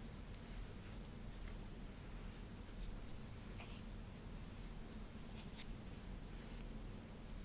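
Faint, irregular scratchy strokes through long hair, a few a second at times, over a low steady hum.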